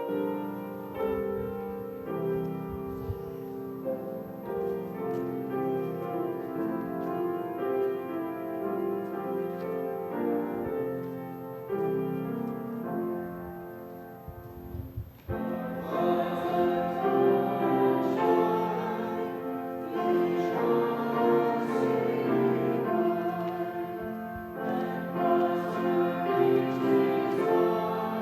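Piano playing a hymn tune as the introduction. About halfway through, the congregation starts singing the hymn along with the piano.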